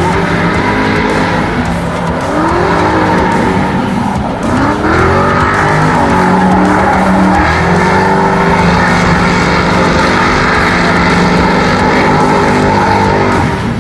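Drift car engines revving up and down hard with tires squealing and skidding through a drift run.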